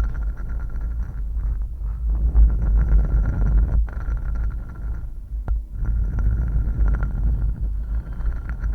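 Close-miked ASMR trigger sounds: continuous irregular scratching and rubbing over a heavy low rumble, with a faint steady hum. The sound briefly drops off about five and a half seconds in.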